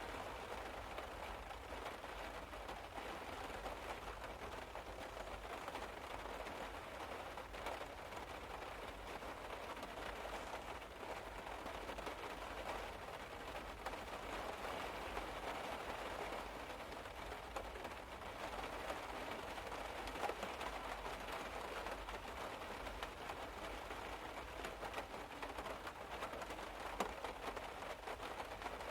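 Steady rain falling on a car's roof and windows, heard from inside the car as a dense hiss of small drops.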